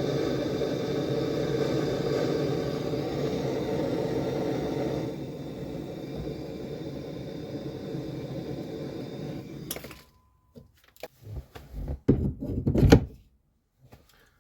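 A steady machine hum that drops in level about five seconds in and cuts off suddenly about ten seconds in, followed by a few scattered knocks and thuds, the loudest near the end.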